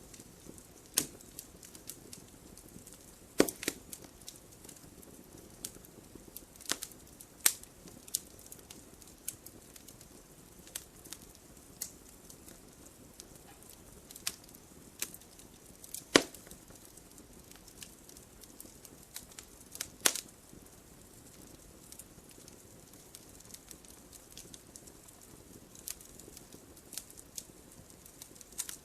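Wood fire crackling: irregular sharp pops and snaps over a soft steady hiss, with a few louder pops about three and a half, sixteen and twenty seconds in.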